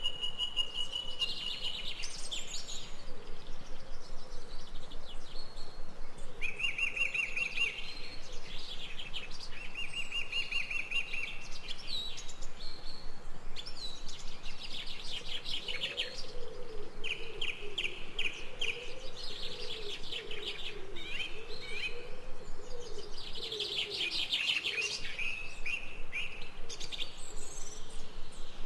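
Several wild birds singing in forest: repeated trilled phrases and chirps follow one another, with a lower warbling call joining in through the middle stretch, over a steady outdoor background.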